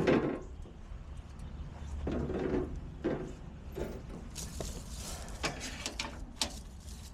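Scattered clicks, knocks and scrapes of parts or tools being handled, irregular and short.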